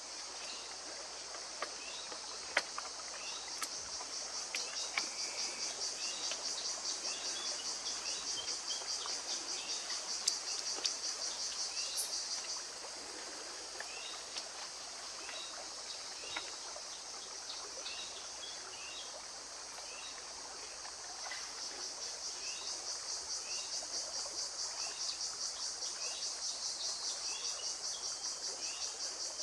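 Forest ambience dominated by an insect chorus: a high, rapidly pulsing buzz that fades out about twelve seconds in and swells back about twenty-one seconds in. Short, high bird chirps repeat throughout, with a few faint clicks.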